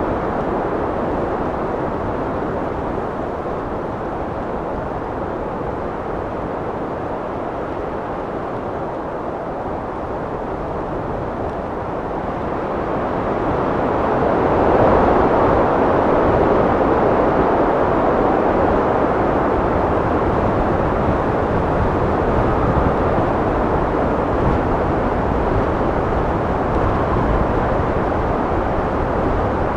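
Wind blowing in a steady rush, swelling about halfway through into a stronger gust that holds.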